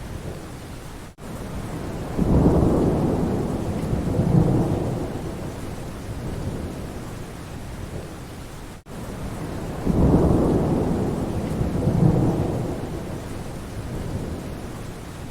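Steady rain with two rolls of thunder, one about two seconds in and another about ten seconds in, each rumbling for several seconds before fading back under the rain. The sound cuts out for an instant twice.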